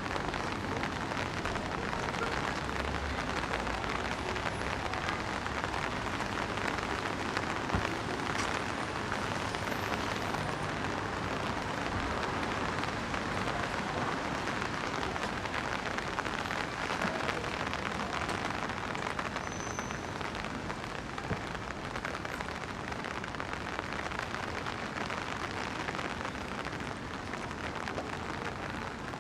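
Steady rain falling and pattering on surfaces: an even, unbroken hiss.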